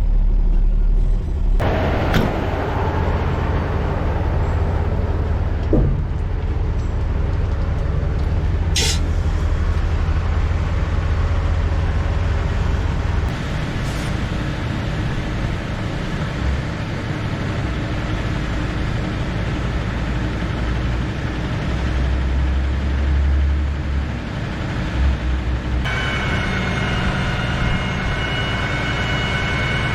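Heavy dump truck's diesel engine running steadily with a deep rumble, with a few short air hisses. A steady, multi-toned whine joins near the end.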